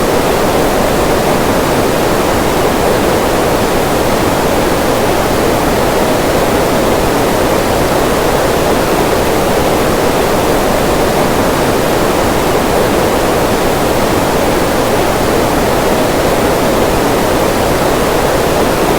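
Waterfall: a steady, even rush of falling water, fullest in the lower middle range, with no change in level throughout.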